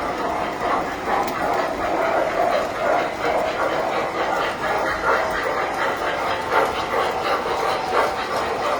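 Tinplate model trains running on the layout, a steady rolling clatter of metal wheels on track.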